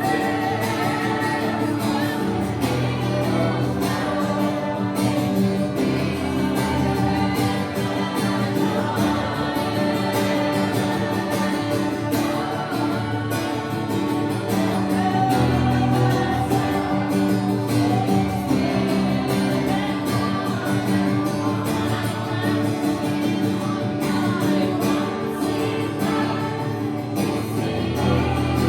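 Live worship music: voices singing over guitar accompaniment.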